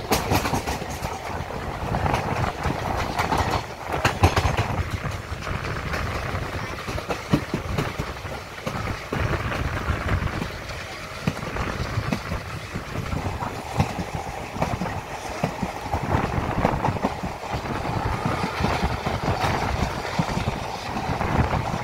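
A passenger train running along the track, heard from inside a coach by the window: a continuous rumble with wheels clacking over the rail joints.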